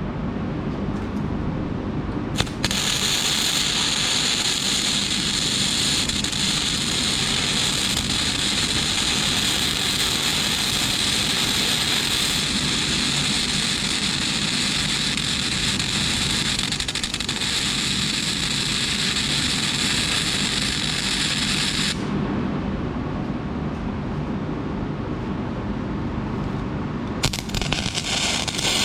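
Flux-core wire-feed arc welding on steel with a Lincoln Weld-Pak 90i: a continuous crackling, sputtering hiss of the arc as a bead is run. It starts a couple of seconds in and stops abruptly after about twenty seconds. Then a lower steady background follows, with a few sharp clicks near the end.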